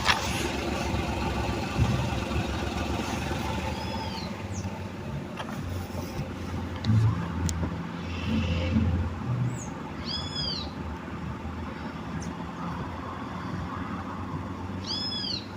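Fiat Argo with the engine running while its steering is worked toward full lock: low groaning and knocking from the steering box, a noise the owner thinks is chronic to this car. A few short high chirps are heard at intervals.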